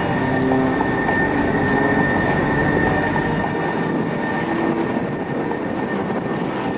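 Extra 300L aerobatic plane's six-cylinder piston engine and propeller running steadily under aerobatic power, a continuous noise with a constant high whine through it.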